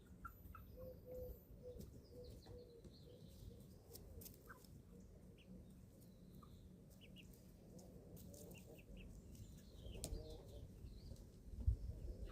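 Eleven-week-old chickens softly calling while feeding. A run of low, evenly repeated notes comes about a second in, with short chirps and faint clicks scattered through. A louder low rumble rises near the end.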